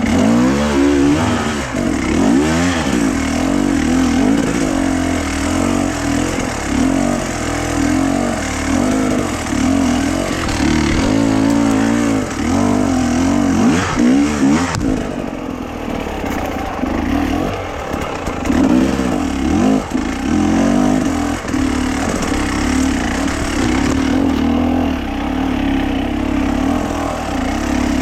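A small petrol engine running hard, its pitch repeatedly rising and sagging as the load changes.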